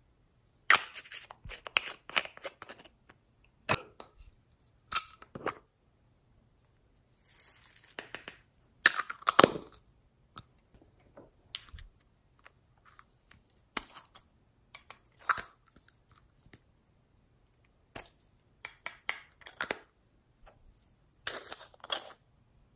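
Slime being squeezed and poked by hand, giving irregular clusters of sharp crackles and pops with short quiet gaps between them.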